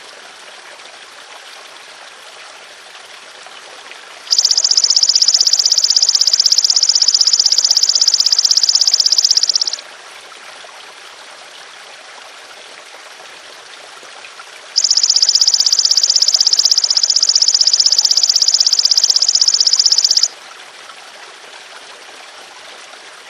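Belalang emas (golden grasshopper) insect giving long, even, high-pitched buzzing trills: two of them, each about five and a half seconds, the first starting about four seconds in and the second near the middle. Steady trickling water runs underneath throughout.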